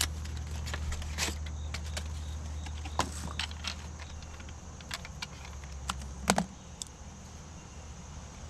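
Scattered light clicks and knocks of equipment being handled, the sharpest a little after six seconds in, over a steady low hum that drops away soon after.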